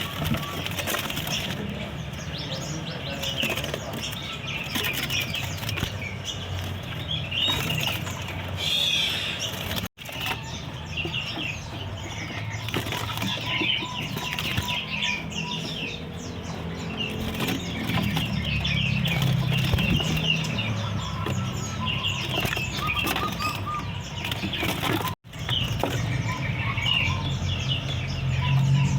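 Many caged songbirds chirping and twittering at once, with wings fluttering in the cages, over a low steady rumble; the sound drops out briefly twice, about ten seconds in and near the end.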